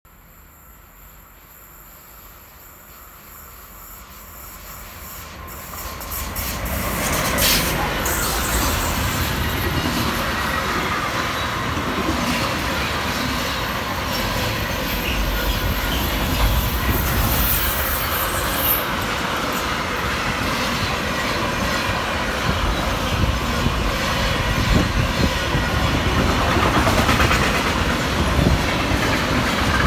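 A Siemens Vectron-hauled container freight train approaches, growing louder over about seven seconds, then its wagons roll past in a steady heavy rumble with clicking of wheels over the rails. A high wheel squeal comes through near the middle.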